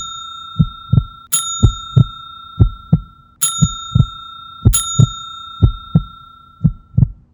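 Heartbeat sound effect: a steady double thump about once a second, with a bell-like chime struck several times, each ringing tone dying away over a second or two.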